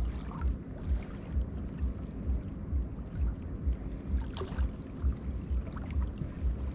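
River water lapping and splashing, under a low throb that pulses evenly about twice a second.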